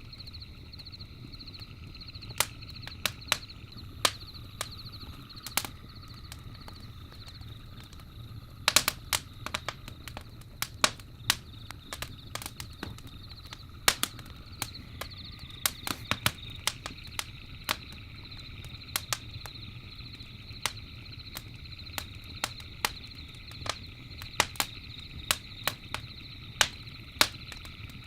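Campfire crackling, with sharp irregular pops and snaps from the burning wood over a low steady rumble of the flames. A steady, high-pitched trilling hum runs underneath throughout.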